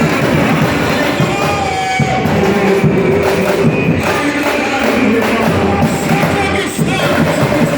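Samba-school percussion section playing a samba at full volume, with voices singing along over the drums.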